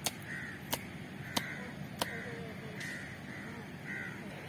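A bird calling over and over, short harsh calls about once a second, with four sharp clicks in the first two seconds.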